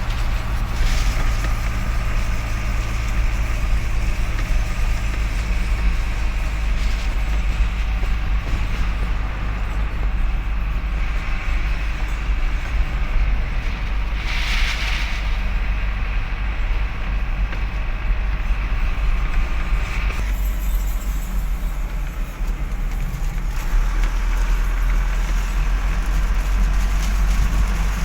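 Heavy truck running, with a steady low engine and road rumble throughout and a short hiss about halfway through.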